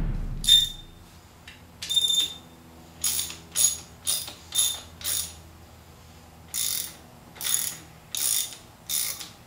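Hand ratchet wrench being worked in short strokes, a dozen or so quick clicking bursts in irregular groups with brief pauses. The tail of a music track dies away at the very start.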